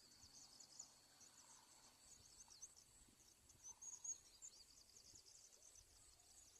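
Faint, steady chorus of insects such as crickets: a thin continuous high trill with many quick high chirps over it.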